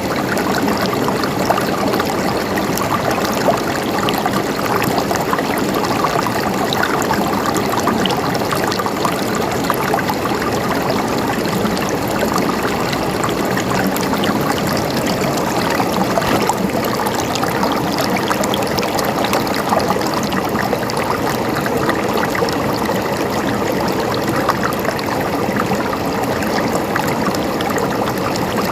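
Water running and trickling steadily over rocks in a small stream, with a fine splashing texture.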